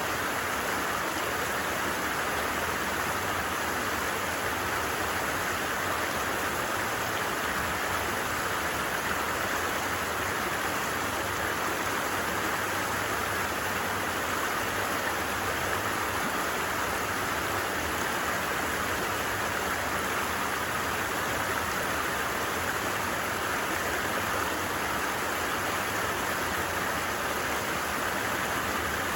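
Steady rush and babble of a flowing creek.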